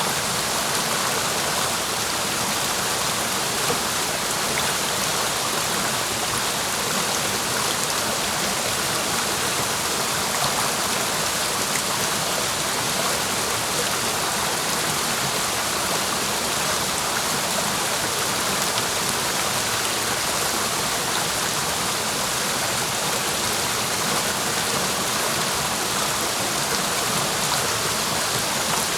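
Clear mountain stream flowing and splashing, a steady, even rush of water that doesn't change.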